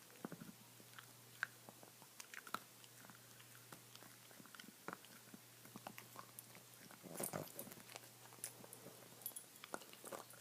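Dog gnawing on a bone: scattered crunching clicks and bites, with a busier spell of chewing about seven seconds in.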